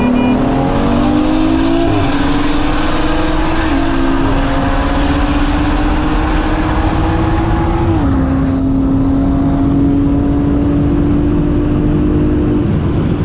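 Car engine at full throttle, its pitch climbing steadily through the gears with upshifts about 2, 4 and 8 seconds in, then backing off near the end.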